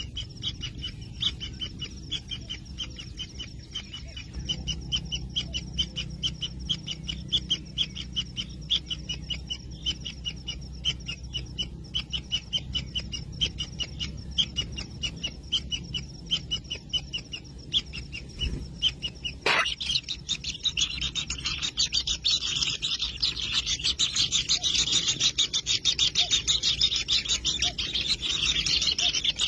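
Kingfisher nestlings calling in their nest burrow: a fast run of short, high ticking calls that, after a sharp click about two-thirds through, turns into a louder, denser buzzing chorus.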